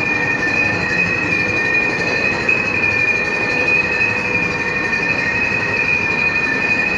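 A machine running steadily, a loud whine held at two high pitches over a noisy hum, unchanging throughout.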